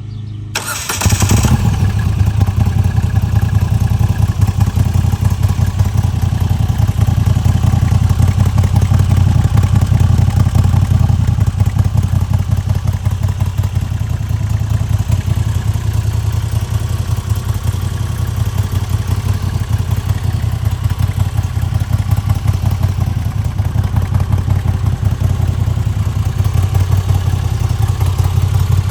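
Moto Guzzi V85TT's air-cooled 853 cc transverse V-twin starting about a second in, then idling steadily with an even, low pulse.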